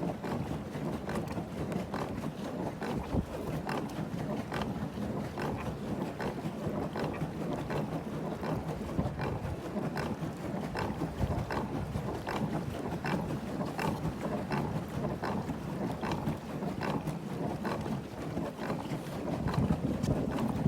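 Wind buffeting the microphone out on open lake water, a steady low rumble, with scattered small splashes and knocks of water against a kayak and paddles.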